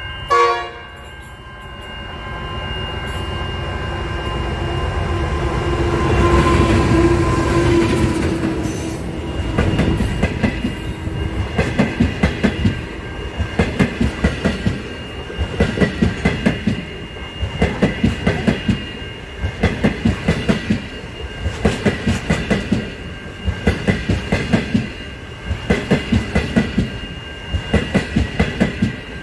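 A passenger train with stainless-steel carriages passing close by at speed. It opens with a short horn blast, then the locomotive grows louder and goes by over the first several seconds. After that comes the rhythmic clickety-clack of the carriage wheels over rail joints, in clusters about every two seconds, with a steady high-pitched ring underneath.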